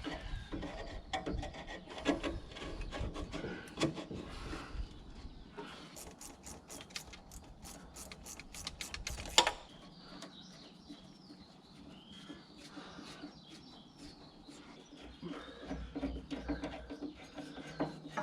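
Hand tools working loose the radiator hose clamp: scattered metal clicks and knocks, then a steady run of sharp clicks about three or four a second, ending in one loud knock about nine seconds in, after which the clatter is fainter.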